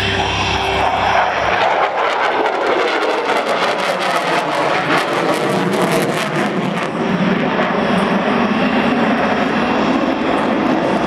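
Lockheed Martin F-22 Raptor's twin afterburning turbofan engines roaring through a low pass, with a crackling rasp from about two seconds in to about seven seconds in. The jet noise replaces fading music over the first second or two.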